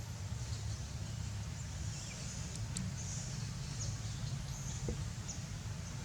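Outdoor ambience: a steady low rumble with a high hiss, and a few faint, short high chirps and clicks scattered through it.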